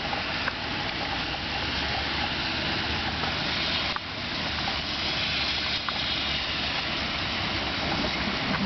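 Heavy rain pouring down in a thunderstorm, a steady dense wash of noise with a few faint drop clicks.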